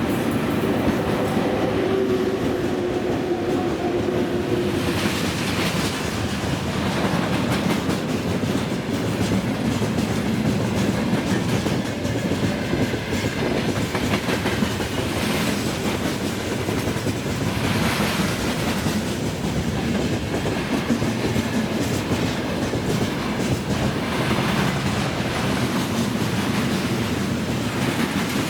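Freight train wagons rolling past, with a steady rumble of steel wheels on rail and repeated clickety-clack surges as wheelsets cross rail joints. A steady hum fades out in the first few seconds.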